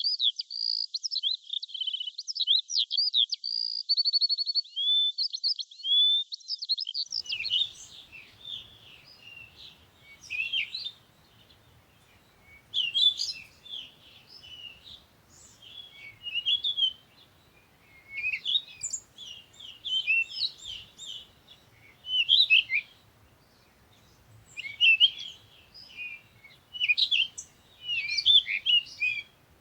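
Songbirds chirping. For the first seven seconds there is a dense, unbroken run of quick trills and whistles. After that come short bursts of chirps every second or two over a faint background hiss.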